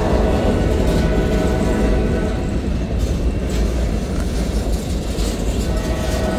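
Freight cars of a CSX mixed manifest train rolling past close by: a steady rumble of steel wheels on the rails.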